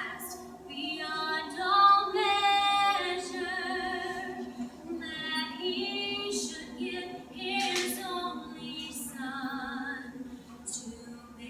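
A small group of mixed voices singing a worship song a cappella in harmony, women's voices leading.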